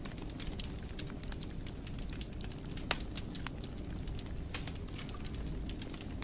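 Wood fire in a fireplace crackling, with irregular sharp pops over a steady low rumble of the flames; one louder crack about three seconds in.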